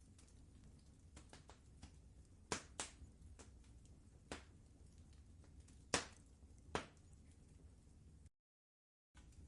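Wood fire crackling in a fireplace: sharp, irregular pops and snaps over a faint, steady low rumble, the loudest pop about six seconds in. The sound cuts out completely for under a second near the end.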